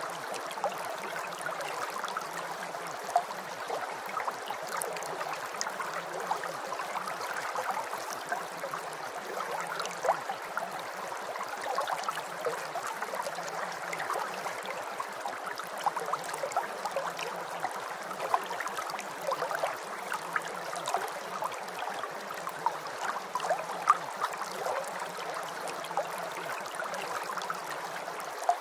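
Steady rain: an even hiss with a dense patter of small drops, and a faint low pulse beneath it that repeats about every second.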